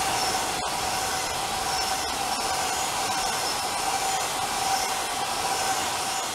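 A train running past on the near tracks: a steady rushing of wheels on rail with a steady whine through it. It fades as the train clears, just after the end.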